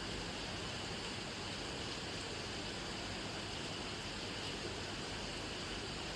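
Steady rainfall: an even, unbroken hiss of falling rain with no separate drops standing out.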